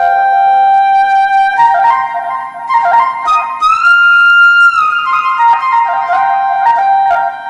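Korg TR keyboard playing a flute patch: a single melodic line of held notes, with one note sliding up and held for about a second midway.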